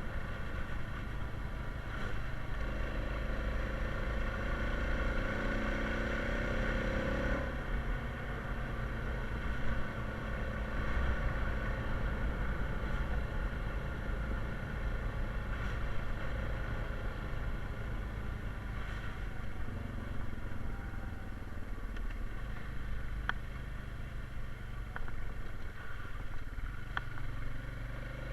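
Honda Rubicon 520 ATV's single-cylinder engine running steadily on a trail ride. A higher whine in its note drops away about a third of the way in, and a few sharp clicks come near the end.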